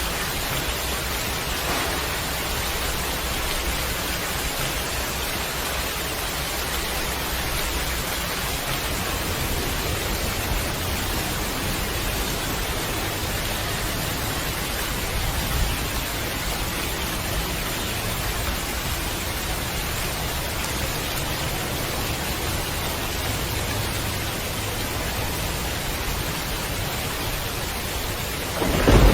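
Steady, heavy rain falling. Just before the end, a loud low rumble of thunder sets in.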